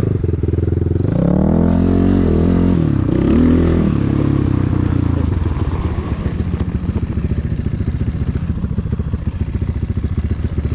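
Enduro motorcycle engine revving up and down a few times over the first four seconds, then settling into a steady low idle with a fast, even putter.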